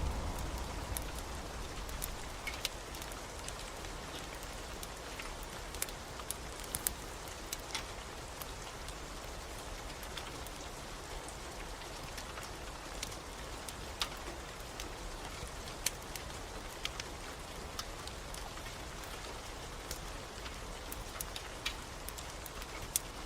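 Steady rain hiss with scattered sharp pops and crackles from a wood fire in a fireplace. A low thunder rumble fades out in the first couple of seconds.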